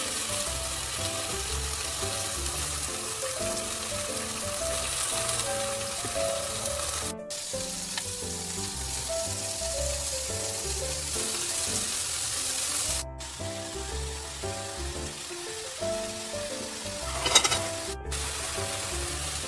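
Pork belly (samgyeopsal) sizzling as it fries, under background music with a melody and bass line. The sound cuts out briefly three times, and a short sharp sound stands out a little before the end.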